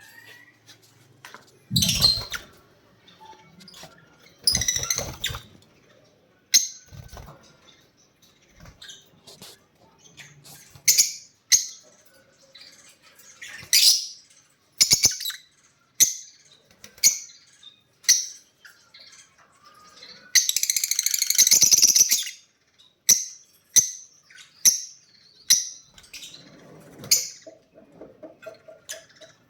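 Lovebirds chirping in short, sharp, high calls, roughly one a second, with a louder, noisier burst of calling lasting over a second about two-thirds of the way in. Two low thumps come in the first few seconds.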